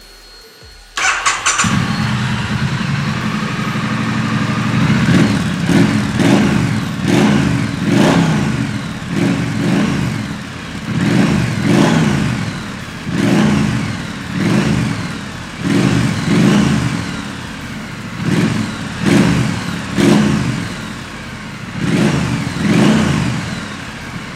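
2017 Triumph Street Scrambler's 900cc parallel-twin engine cranked on the starter about a second in, catching at once and settling to idle. It is then blipped in short revs about once a second or so, dropping back to idle between each.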